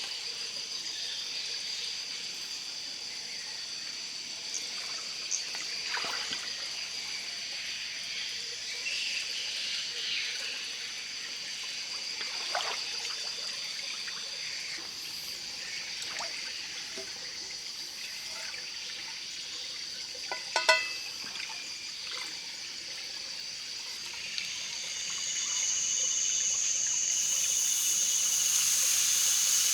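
Water trickling under a steady high-pitched drone, with a few light knocks, the sharpest about two-thirds of the way in; a louder hiss builds near the end.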